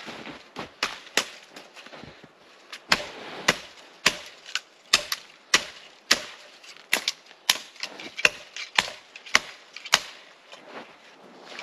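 Shovel cutting into and scraping firm snow while digging a fire pit: a string of sharp, crunchy strikes, irregular, about one or two a second.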